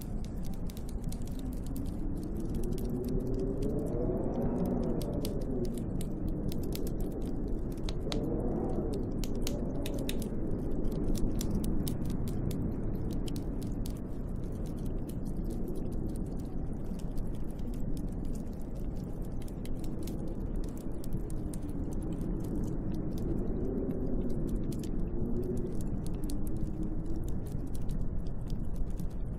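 Snowstorm wind howling outside a window: a steady low rush with moaning gusts that rise and fall in pitch, and a sprinkle of fine ticking clicks throughout.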